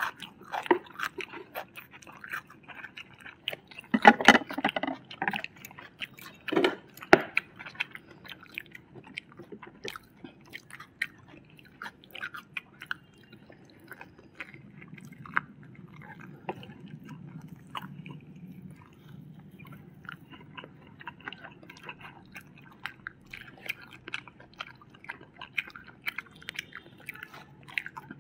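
People chewing and biting crispy fried chicken and noodles, with many short wet clicks and sharp crunches; the loudest crunches come about four and seven seconds in.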